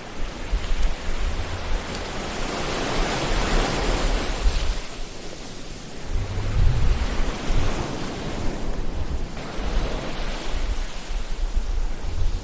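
Ocean waves washing in and drawing back, the surf noise swelling and ebbing about three times, over a low rumble.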